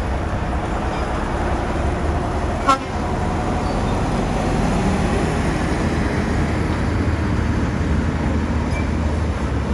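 Heavy diesel engine of a bulldozer running steadily under load, with one short sharp metallic clank a little under three seconds in.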